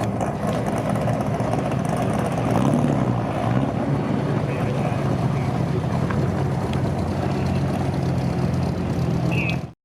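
Car engine running steadily at a low, even speed, cutting off abruptly right at the end.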